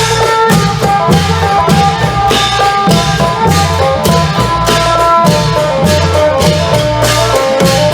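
Isan klong yao long-drum ensemble playing a steady, driving beat with jangling cymbals, under a phin (Isan lute) melody.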